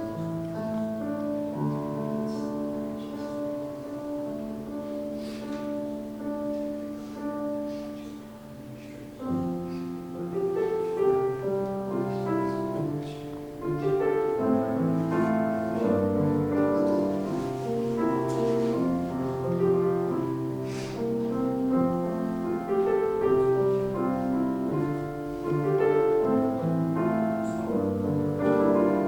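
Slow piano music: held chords for the first several seconds, then more moving notes from about nine seconds in.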